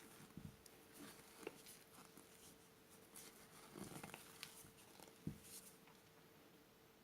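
Faint, scattered light scrapes and clicks of a spatula folding macaron batter in a mixing bowl, over a faint steady hum.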